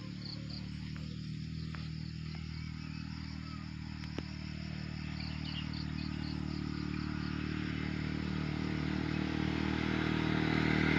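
A motor vehicle's engine running steadily and growing louder as it approaches. Insects chirp in short repeated pulses high above it, and there is a single click about four seconds in.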